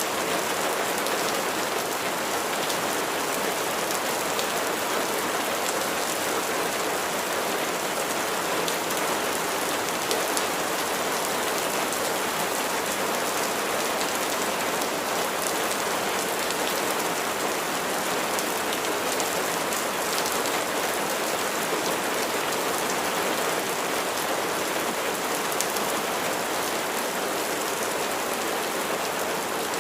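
Steady rain falling: an even, unbroken hiss of many raindrops at a constant level.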